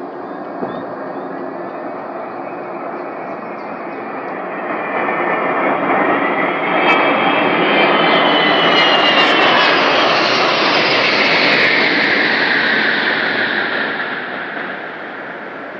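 Military airplanes flying over: their engine noise swells over a few seconds, is loudest as they pass, then fades near the end with a falling whine.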